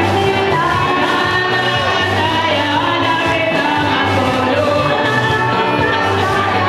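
Gospel-style music with group singing over a steady bass line.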